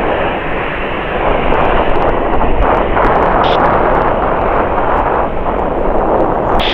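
Jet airliner engines roaring, a loud, steady rushing noise.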